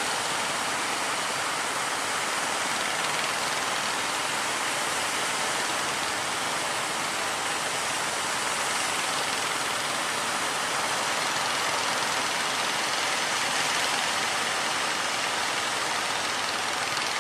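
Steady rushing noise of heavy surf breaking, an even hiss-like wash with no change in level.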